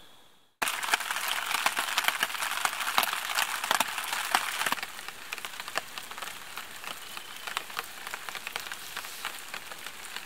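Rain pattering on a plastic tarp shelter roof: a dense hiss of many sharp drop ticks that starts abruptly about half a second in and eases off a little about halfway through.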